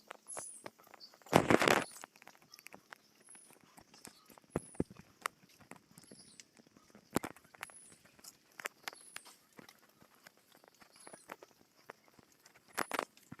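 Scattered footsteps and sharp clicks, with a loud rustle about one and a half seconds in and another just before the end. A short, high chirp that falls in pitch recurs about once a second behind them.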